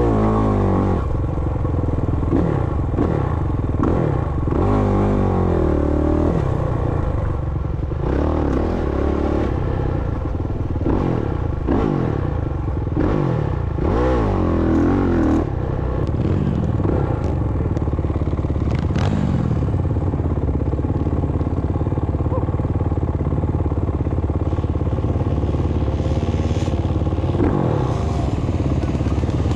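Motocross dirt bike engine being ridden hard, revving up and down again and again. About halfway through, the engine note settles to a steadier pitch.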